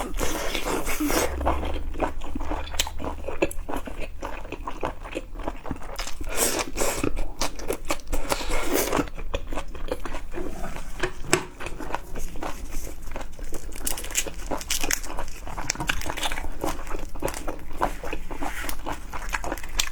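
Close-up eating sounds of seafood being bitten and chewed: a dense, irregular run of wet clicks and crunches.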